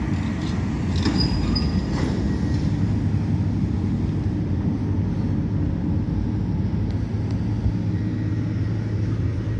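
Demolition excavator's diesel engine running steadily, with a couple of faint clinks about a second and two seconds in.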